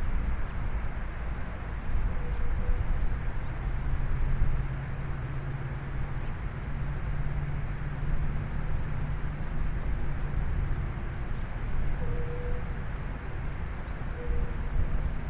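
Thunderstorm wind gusting against the microphone: a steady low rumbling rush with a lighter hiss above it, and short faint high chirps about once a second.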